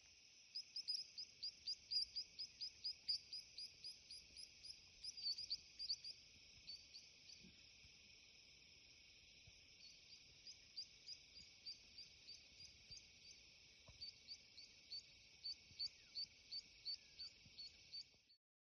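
Faint evening chorus of the African bush: a steady high insect trill, over which a small animal repeats a sharp chirp about three times a second in two long runs, with a pause of a few seconds in the middle.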